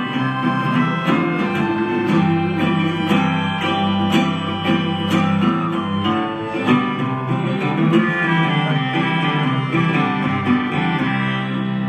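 Live band music: an instrumental break led by guitar over a steady beat of about one stroke a second, with no singing.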